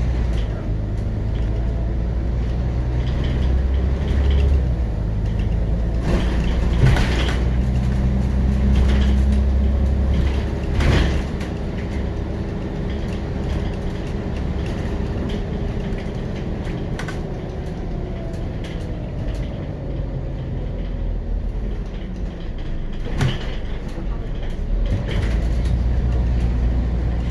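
Scania CN94UB Omnicity city bus under way, heard from inside: its Scania DC9.01 five-cylinder diesel and ZF automatic driveline running, pulling harder in the first half, easing off through the middle and building again near the end. A few sharp knocks or rattles from the bus body come through.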